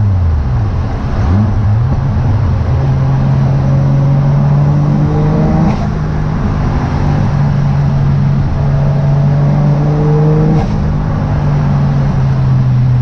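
Turbocharged 1JZ VVTi inline-six engine of a Nissan 240SX S13 pulling under acceleration while driving, its pitch climbing steadily. A brief burst of noise comes twice, about six and eleven seconds in, as the engine lets off.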